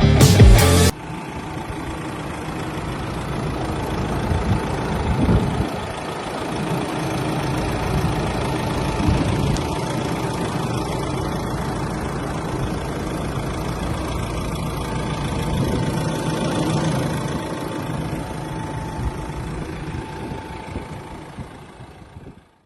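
Nissan Navara's 2.3-litre four-cylinder diesel engine idling steadily, fading out near the end. Background music cuts off about a second in.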